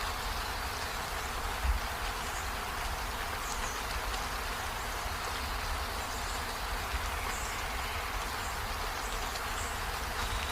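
Steady rain falling, an even hiss with a low rumble underneath and a few faint high ticks.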